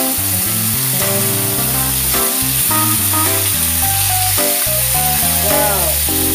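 Background music over chicken wings sizzling as they pan-fry in a little oil.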